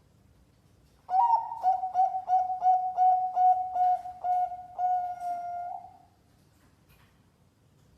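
Zebra dove (perkutut) cooing: a quick run of about a dozen short, even-pitched coos ending in a longer held note, a competition-grade song used as a lure to get silent doves singing.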